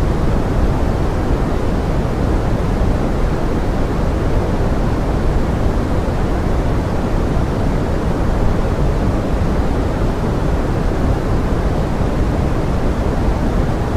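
Steady pink noise of forest rain: an even, deep hiss with most of its weight in the low end and no single drops or changes standing out.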